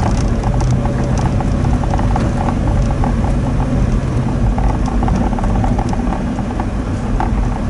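Daihatsu Hijet kei truck driving, heard from close by: a steady low engine and road rumble with a constant scatter of small rattling clicks.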